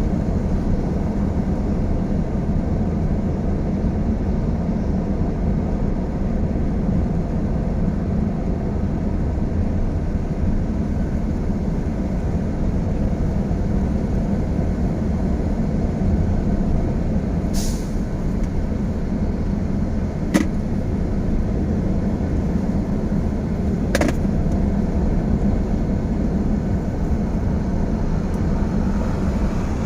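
Heavy vehicle running steadily, a continuous low engine and road rumble. A short air hiss comes about eighteen seconds in, and two sharp clicks follow a few seconds later.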